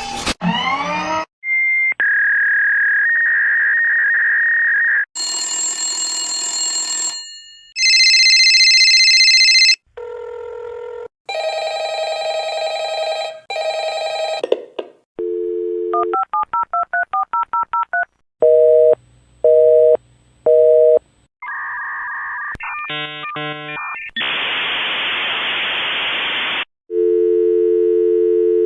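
A run of telephone line sound effects one after another, each cut off sharply: steady electronic tones, a quick run of dialing beeps, three pulsed beeps, a patch of hiss, and near the end a steady two-note dial tone.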